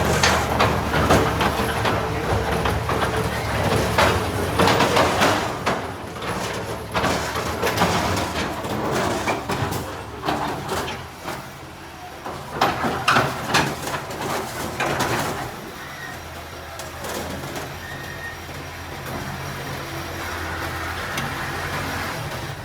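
Komatsu D21-P bulldozer's diesel engine running with a steady low hum and repeated clanks of machinery working; the clanking dies away about fifteen seconds in, leaving a quieter steady running sound.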